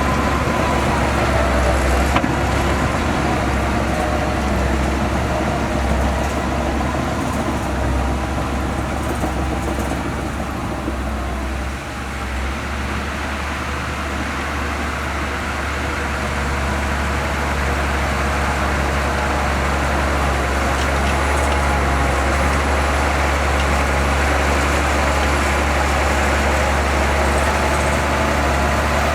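Bulldozer's diesel engine running steadily under work. It dips briefly about twelve seconds in, then gradually rises again.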